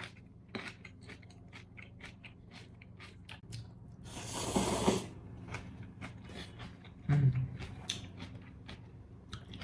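Close-up mouth sounds of someone eating instant noodles: a steady run of small wet chewing clicks, with a louder, second-long slurp about four seconds in.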